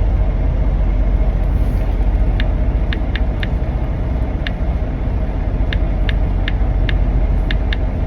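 Semi truck's diesel engine idling steadily, a constant low rumble. Short sharp clicks come at irregular intervals over it from about two seconds in.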